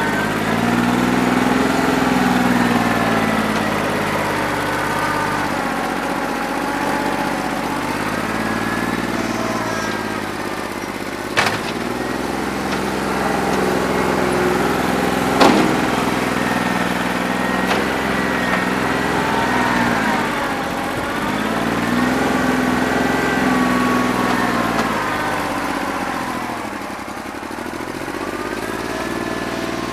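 New Holland 1320 compact tractor's three-cylinder diesel engine running with a bad injector, its speed sagging and recovering again and again as the load changes. Two sharp knocks sound about 11 and 15 seconds in.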